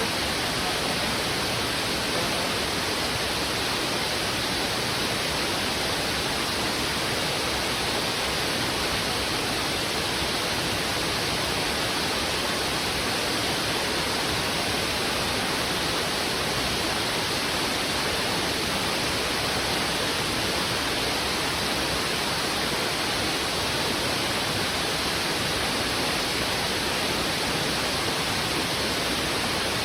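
A river in heavy flow, its strong current rushing over rocks: a dense, even rush of water that holds at one level throughout.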